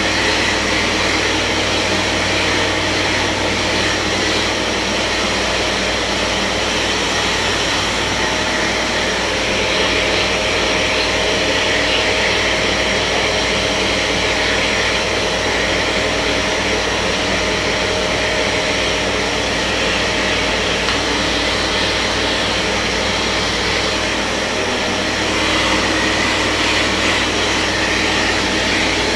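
Kärcher MV6 P Premium wet-and-dry vacuum cleaner running steadily, with a steady low hum underneath.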